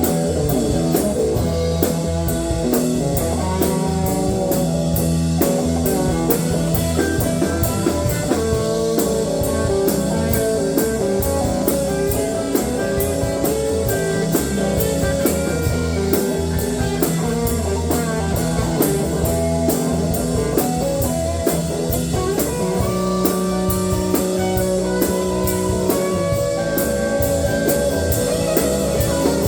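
A band playing a blues-rock song: guitar over a steady drum-kit beat, with no singing.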